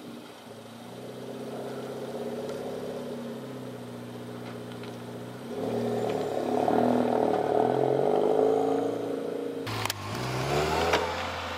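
Subaru WRX's turbocharged flat-four engine idling just after being started, getting louder about halfway through. Near the end its note rises as the car pulls away.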